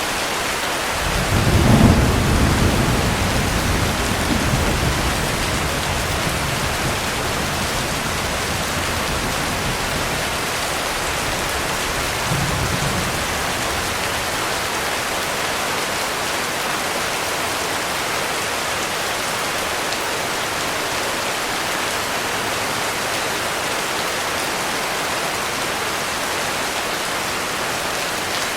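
Heavy rain falling steadily as an even hiss. A deep roll of thunder swells about a second in and dies away over a few seconds, and a weaker rumble follows near the middle.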